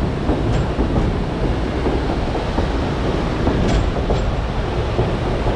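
White Pass & Yukon Route narrow-gauge passenger train running along the track: a steady rumble of steel wheels on rail, with a few faint clicks.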